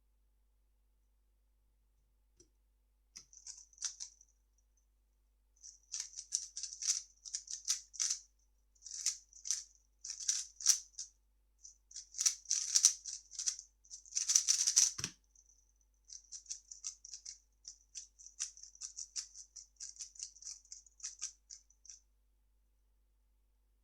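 3x3 speedcube being turned fast: rapid plastic clicking in bursts of several turns, broken by short pauses, with one duller knock about fifteen seconds in.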